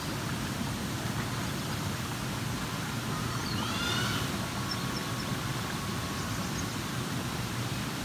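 Steady low background rumble of an outdoor park, with a few faint high chirps about halfway through.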